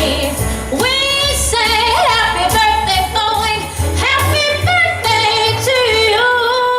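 Female vocal group singing close harmony over a backing track with a steady bass line.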